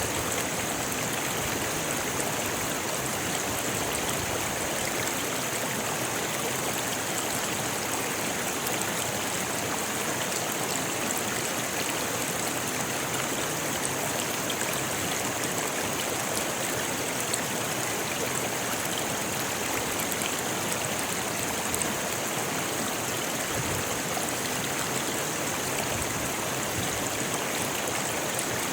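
Rocky river flowing steadily over stones: an even, unbroken rush of water with a bright hiss on top.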